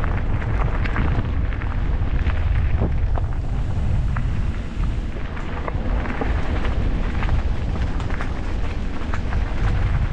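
Wind buffeting the microphone of a moving e-bike as a steady low rumble, with road and tyre noise and scattered small clicks and rattles.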